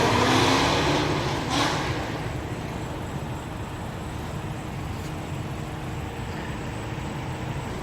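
Exhaust of a Shelby GT350's 5.2-litre Voodoo V8 with Kooks headers and exhaust, fading after a hard acceleration, its echo off nearby buildings dying away over the first two seconds. A steady low engine rumble follows.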